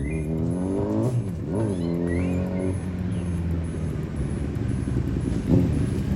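Superbike engine revving: the pitch climbs over the first second, rises and falls quickly once, then settles into a steady run.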